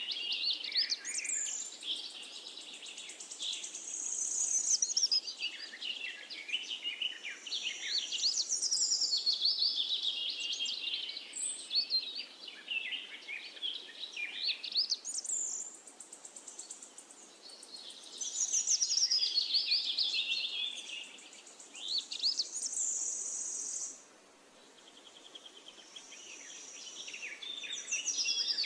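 Birds singing: a dense, overlapping run of quick chirps and trills, easing off briefly near the end.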